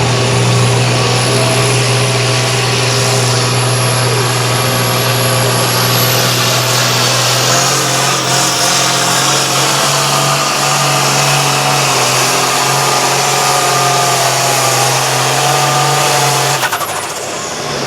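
Competition pulling tractor's engine held at full throttle through a sled pull, a steady loud note with a thin high whine that climbs in pitch about six seconds in. Near the end the engine is throttled back and the note falls away.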